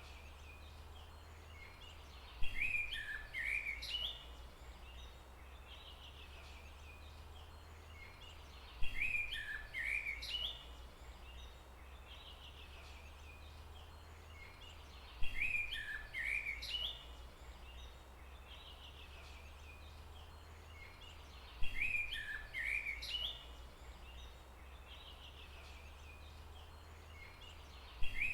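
Forest birdsong: a short burst of chirping bird calls that recurs in the same shape about every six seconds, five times, over a steady low rumble.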